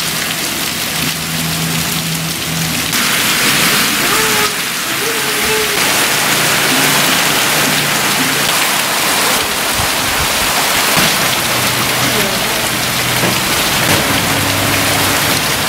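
Heavy rain pouring down steadily as a dense, loud hiss, growing fuller about three seconds in. Faint low humming tones come and go underneath.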